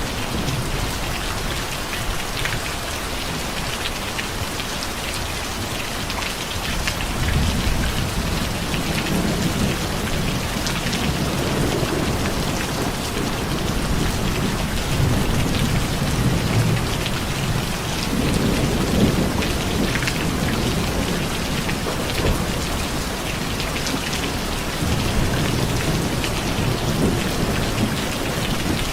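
Steady heavy rain, with fine drop ticks through the hiss. Low thunder rumbles swell up several times, starting about a quarter of the way in.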